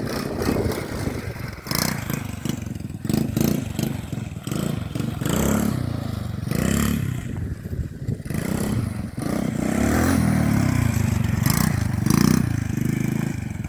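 RC quad bike's motor revving in repeated surges, its pitch rising and falling with the throttle, with sharp knocks and clatter as the model bangs over the ground.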